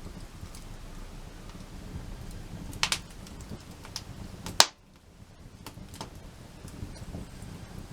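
Wood campfire crackling, with scattered small snaps over a low rumble, a sharp pop about three seconds in and a louder one just before five seconds.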